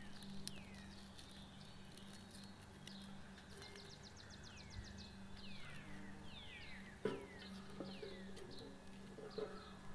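Small birds chirping, with repeated short falling notes and a fast trill a few seconds in, over a faint low steady hum. A single sharp knock about seven seconds in is the loudest sound.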